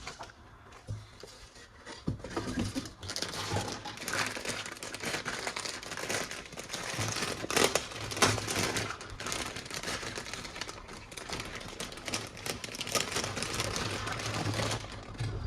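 Plastic packaging crinkling and rustling as it is handled and unwrapped, with a few sharp clicks and knocks, the loudest about halfway through.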